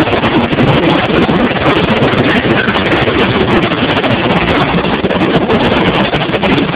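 Motorcycle engines running loud with a steady, rough exhaust noise, without distinct revs.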